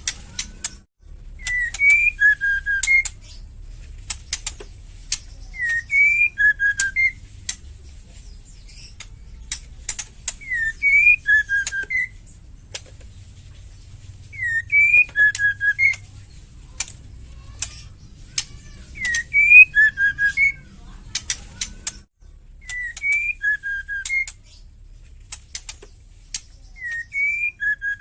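Female white-rumped shama calling: a short phrase of several whistled notes, repeated about every four seconds, with dry, sharp rattling clicks between the phrases.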